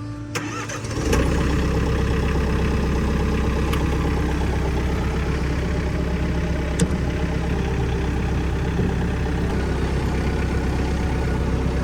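Farm tractor engine idling steadily, coming in about a second in.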